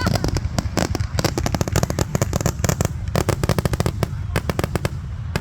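Fireworks finale: a rapid run of sharp bangs and crackling reports, dozens in quick succession, thinning out and getting quieter over the last second or so.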